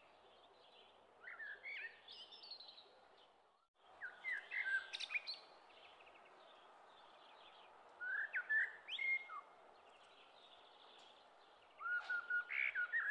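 Birds singing: four short phrases of quick chirps and whistled glides, roughly every four seconds, over a steady faint hiss.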